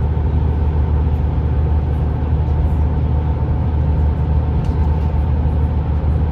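A car driving along a road: a steady low drone of engine and road noise that does not change.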